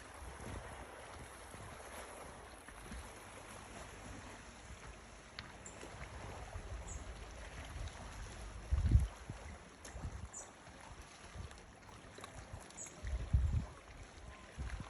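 Steady wash of sea water lapping, with two low rumbling bumps about nine and thirteen seconds in, and a few faint high chirps now and then.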